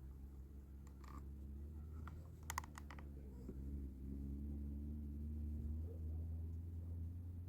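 A steady low hum, with a few sharp light clicks: one about a second in and a quick run of about four between two and three seconds in.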